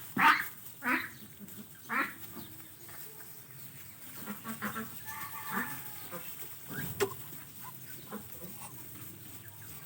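Muscovy ducks giving short calls, three about a second apart at the start, then softer calls. A single sharp knock comes about seven seconds in.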